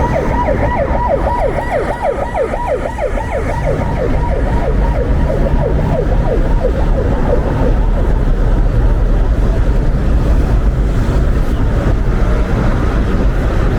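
Emergency-vehicle siren in a fast yelp, about four falling sweeps a second, fading away over the first half. After it, a steady low rumble of traffic and wind remains.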